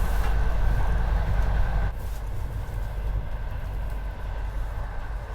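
Passenger train running, heard from inside the carriage: a steady low rumble with a faint steady whine above it, easing a little about two seconds in.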